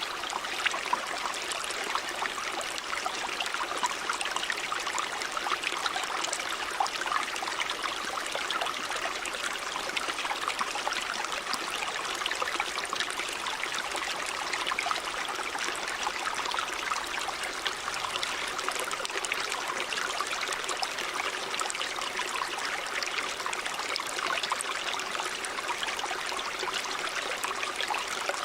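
Stream water running steadily over rocks, a constant rushing with many small splashes and trickles.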